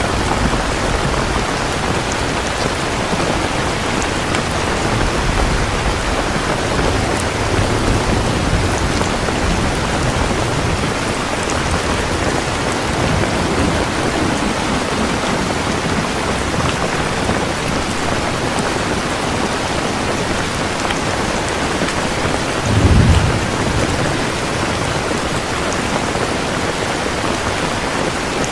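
Steady heavy rain falling on a surface, with low thunder rumbling underneath, including a brief stronger rumble about 23 seconds in.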